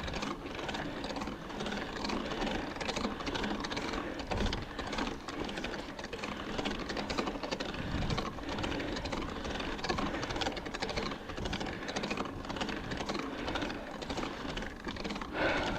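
A mountain bike climbing wet rock in the rain: a steady, dense clatter of fine ticks and rattles over a hiss of rain, with no single loud event.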